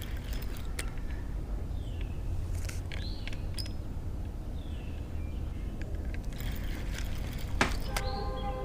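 Spinning reel and rod handling while a hooked catfish is fought and reeled in: scattered light clicks and scrapes over a steady low rumble, with a sharp knock a little before the end and a short pitched hum near the end.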